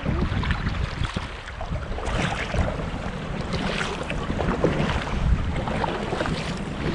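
Water splashing and dripping around a kayak being paddled at sea, many small irregular splashes, with wind rumbling on the microphone.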